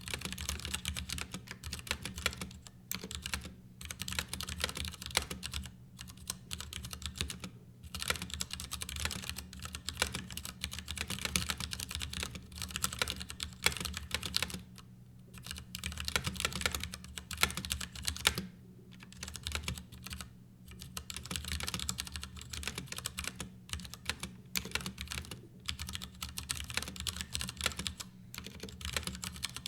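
Typing on a Ducky Year of the Rat mechanical keyboard: fast runs of key clacks broken by short pauses every few seconds.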